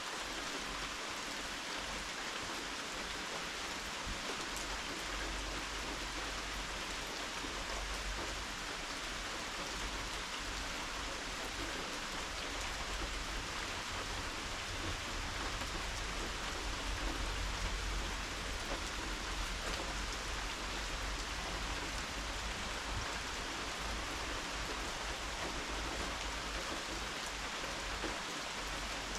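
Steady rain falling, an even hiss with no break. A low rumble swells briefly about halfway through.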